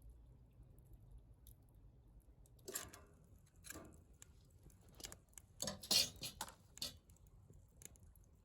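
Quiet clinks and taps of tableware during a meal: a few short knocks between about three and seven seconds in, the loudest near six seconds.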